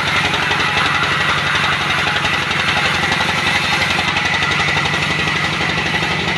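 Sawmill machinery running steadily: an engine-like drone with a rapid, even low pulsing and a thin steady high whine over it.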